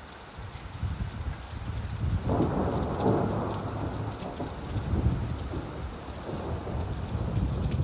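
Steady rainfall with a low rumble of thunder that swells about two seconds in and then slowly fades.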